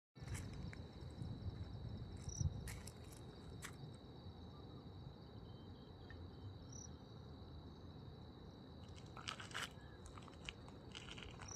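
A steady high-pitched insect drone over a low rumble, with scattered clicks and crackles and a short chirp every few seconds.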